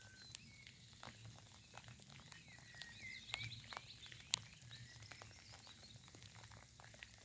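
Light rain falling, scattered drops ticking faintly, with small birds chirping and singing quietly in short phrases. One drop tick near the middle stands out louder than the rest.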